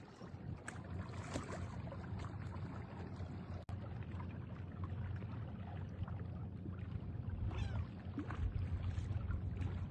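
Seashore ambience: a steady low rumble of wind and waves, with a few faint, high gliding calls.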